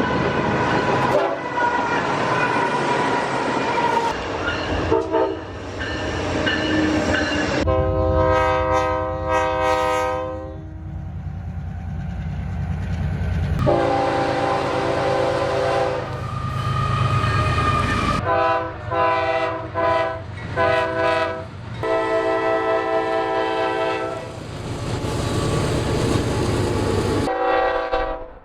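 Amtrak Cascades train's multi-note horn sounding several times, long blasts and a run of short choppy ones, over the steady rumble and clatter of the moving train.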